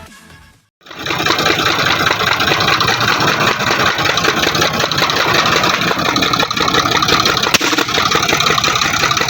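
Tractor engine running loudly, with a fast, rough exhaust pulse. It starts abruptly about a second in, after a brief gap.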